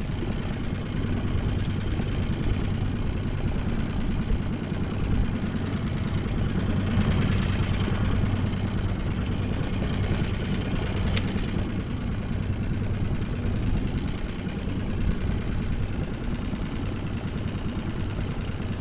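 Boat engine idling steadily with a constant low hum, with a short rise of rushing noise about seven seconds in and a single click a few seconds later.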